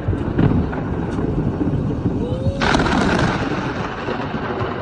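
Thunder rumbling low during a rainstorm. A louder hiss sets in about two and a half seconds in.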